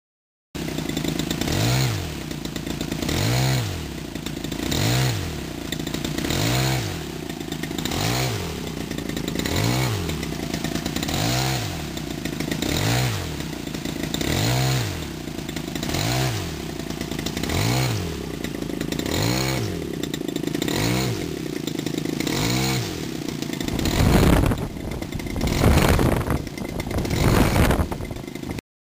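Small combustion engine on a computer-controlled test rig, its speed rising and falling in a regular cycle about every 1.6 seconds as a servo works the throttle. Near the end the running turns rougher, with louder, uneven surges.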